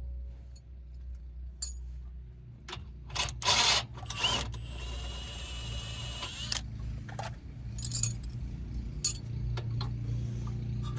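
Metal tools and suspension parts clinking and knocking during control arm work on a car, with a louder clattering burst a few seconds in followed by about two seconds of steady hissing whir.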